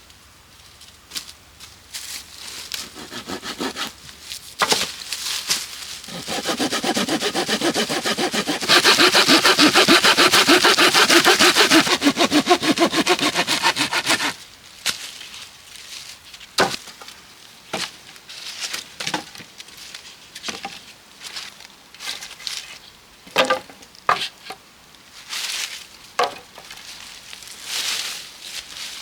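Wood being sawn: a long rasping stretch of sawing in the middle, loudest for a few seconds, with scattered knocks and clicks of wood being handled before and after.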